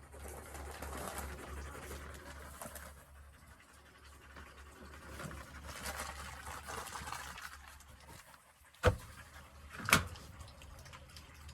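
Household handling and rustling noises, then two sharp knocks about a second apart near the end, the loudest sounds. A low steady hum runs underneath.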